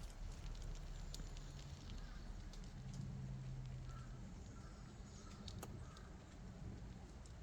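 Faint footsteps of people walking slowly on a forest path, with scattered light ticks over a steady low rumble. A few short, faint tones come near the middle.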